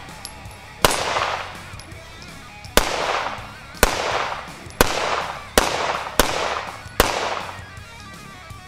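Seven pistol shots from an Arsenal Firearms Strike One, fired at an uneven pace, each sharp crack trailing off in an echo over about a second. Music plays underneath.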